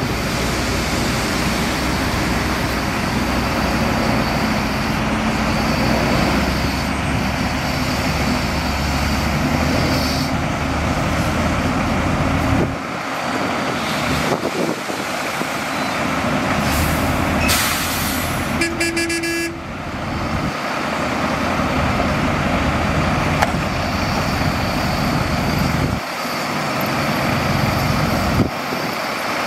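Heavy diesel engines of a dump truck and a crawler bulldozer running steadily. About two-thirds of the way in, a short hiss like an air brake release comes first, then a brief horn toot lasting about a second.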